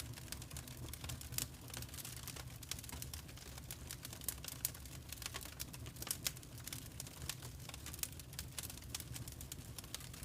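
Fireplace fire crackling: dense, irregular snaps and pops over a low steady rumble.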